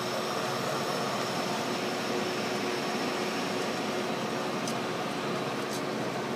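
Steady hum and hiss from a Metra bilevel commuter car close by, its on-board ventilation equipment running, with a thin steady whine over it. A couple of faint ticks come near the end.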